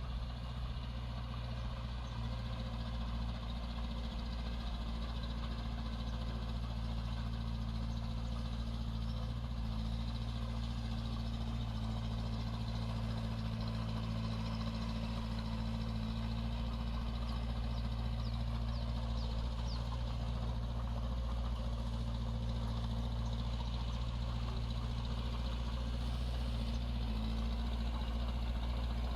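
Diesel engine of heavy earthmoving equipment running steadily, an even low drone that hardly changes.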